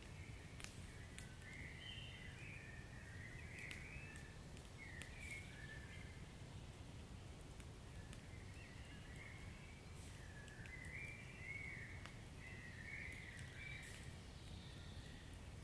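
Wood fire burning in a fireplace: a low steady rumble with scattered faint crackles and pops, and thin wavering whistles that come and go throughout.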